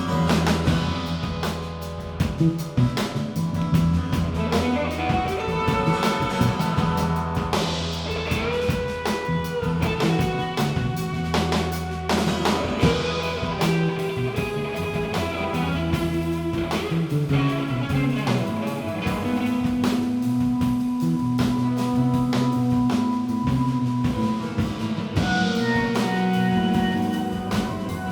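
Live band playing an instrumental passage without vocals: guitar over a drum kit, with sustained low notes underneath.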